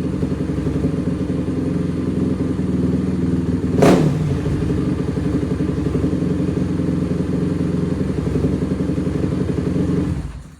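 Single-cylinder four-stroke Honda CRF engine swapped into a Kawasaki KFX ATV, idling steadily, with one sharp pop about four seconds in. The engine shuts off just before the end.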